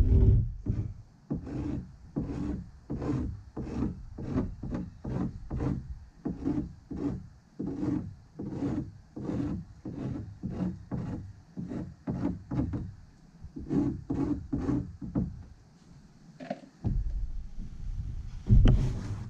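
Stick stirring two-part expanding pour foam in a mixing cup: even scraping strokes, about two a second. They stop about 16 seconds in, and a louder scuffing follows near the end.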